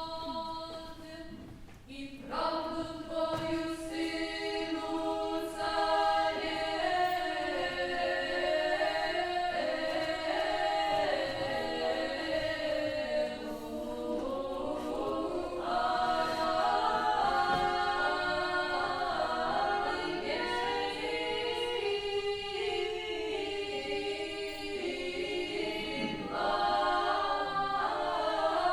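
An a cappella choir singing early Russian music, several voices holding long notes in harmony with slowly moving lines. The singing drops briefly and a new phrase begins about two seconds in.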